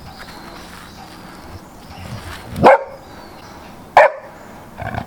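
A dog barking: two short, loud barks about halfway through, a second apart, and a third starting right at the end.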